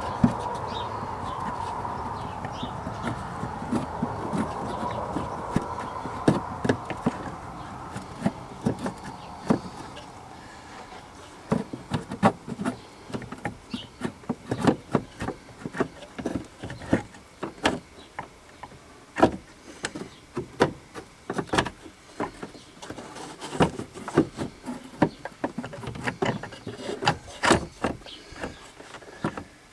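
Irregular clicks, knocks and clunks of a wiper motor and linkage assembly being worked into place by hand, coming more often in the second half. A steady buzzing hum sits under the knocks and fades out over the first third.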